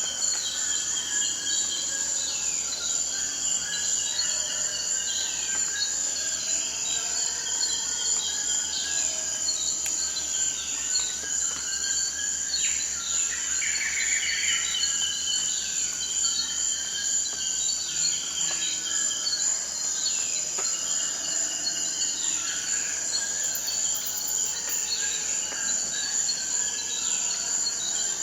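Forest ambience: a steady, high-pitched chorus of insects, crickets or similar, with birds calling over it in short falling notes repeated every second or two, and a brief rattling trill about halfway through.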